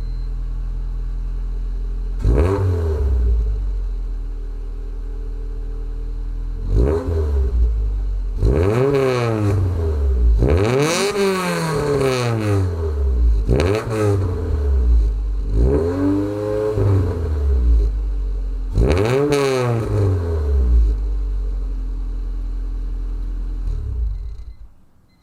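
Honda Civic Si's B16 four-cylinder engine through a Greddy Evo 2 exhaust with aftermarket headers, idling and then free-revved in a string of quick blips that rise and fall back to idle. It settles to a steady idle and cuts off about a second before the end.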